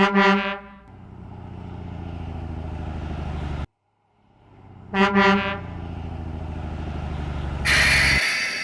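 Truck sound effects: a short horn honk followed by a steady, pulsing engine run, played twice, with the first run cutting off suddenly. A loud hiss comes in near the end.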